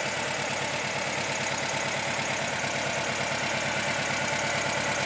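Air-cooled flat-four engine of a 1973 VW Beetle idling steadily, with an even pulse.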